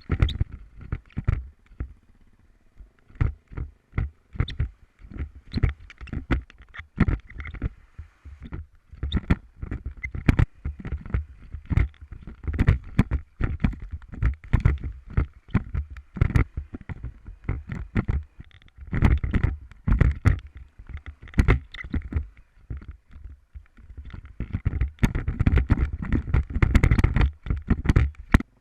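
Irregular knocks, thumps and rumbling buffeting, as a motorcycle-mounted camera's microphone is jolted over rough ground, with a faint engine note underneath. The jolts come several times a second and grow denser and louder near the end.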